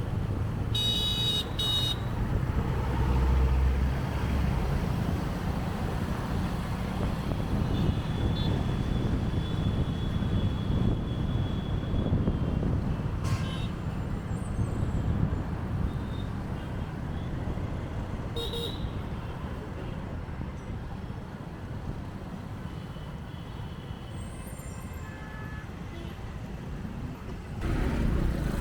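Motorbike riding through city traffic: steady engine and road rumble with surrounding vehicles, and a vehicle horn tooting briefly about a second in, with a couple of shorter, fainter horn notes later.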